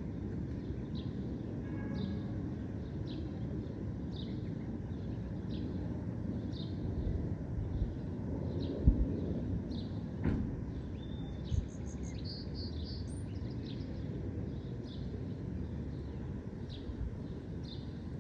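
Dusk park soundscape: a steady low rumble under a regular series of short high chirps, about two a second. A brief flurry of higher bird calls comes about twelve seconds in, and there are a couple of soft low thumps a little earlier.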